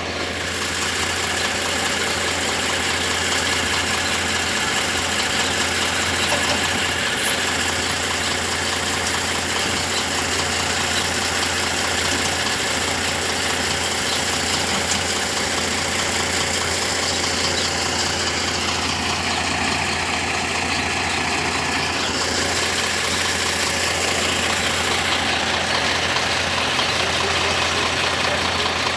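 Miniature railway diesel locomotive engine running steadily, with a constant low hum. A high whine drops in pitch and climbs back about two-thirds of the way through.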